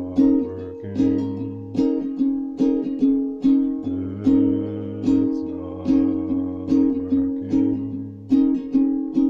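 Instrumental music on a plucked string instrument, strummed chords in a steady rhythm over a low bass line, without singing.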